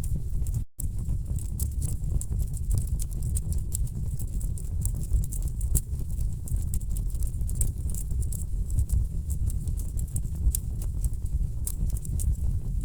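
Wood fire burning in a fireplace: a steady low rumble of flames with frequent sharp, irregular crackles and pops from the burning logs. The sound cuts out completely for a moment under a second in.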